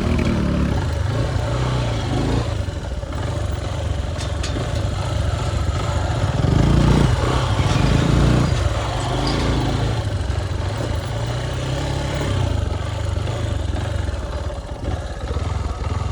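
Motorcycle engine running steadily while riding, swelling louder for a couple of seconds about seven seconds in.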